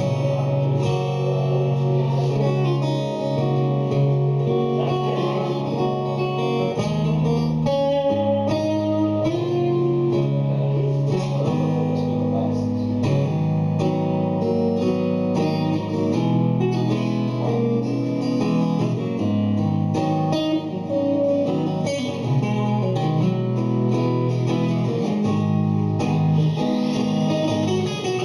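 Guitar music with strummed chords playing continuously at a steady level.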